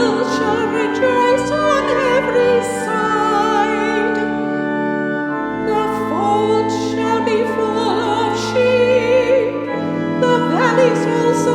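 Sung chant with church organ accompaniment: a voice holds slow notes with vibrato over sustained organ chords that change every few seconds.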